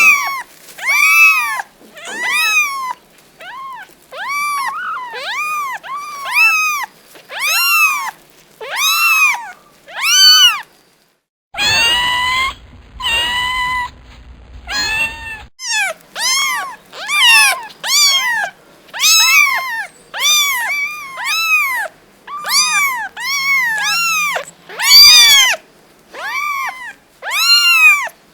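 Domestic cats meowing over and over, about one short meow a second, each rising then falling in pitch. Around the middle a few seconds of longer, rougher meows over a low rumble break the run.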